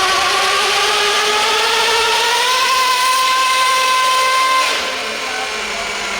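RC pulling truck or tractor under full power on the pull, its motor whine rising in pitch, then holding steady before cutting back about four and a half seconds in.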